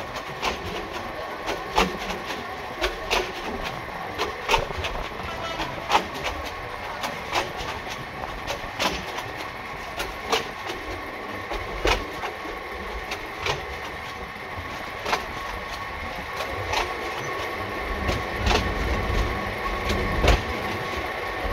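Passenger train coach rolling along the track, its wheels giving sharp clacks over rail joints about once or twice a second, under a faint steady high whine. A low rumble swells in the last few seconds. Heard from an open coach window.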